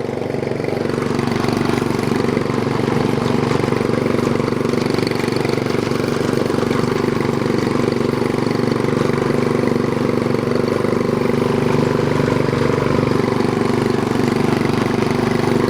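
Small single-cylinder Briggs and Stratton 3.5 HP lawnmower engine on a homemade tractor running steadily while the tractor drives forward.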